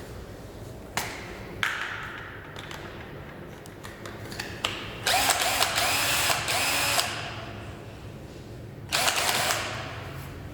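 Cordless drill handled with a few sharp clicks, then run in two bursts: about two seconds from halfway in, and a shorter one near the end.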